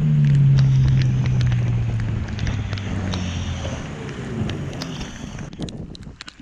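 A boat's motor throttling down, its pitch falling steadily as it slows and dies away over a few seconds, with wind noise on the microphone. A few sharp knocks come near the end.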